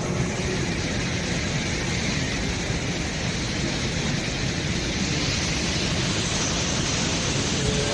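Steady rushing roar of a large waterfall close by, an even wash of water noise.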